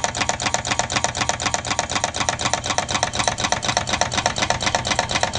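Candle-heated soda-can Stirling engine running, its moving parts making rapid, even clicking, roughly ten clicks a second.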